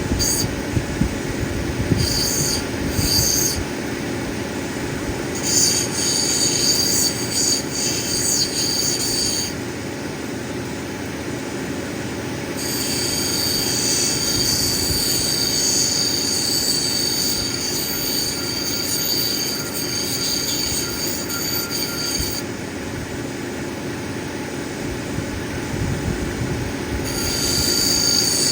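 Cabbing machine running with an opal nobby on a dop stick being ground against a wheel: a steady motor hum with a high squeal that comes and goes in stretches of a few seconds as the stone is pressed on and lifted off.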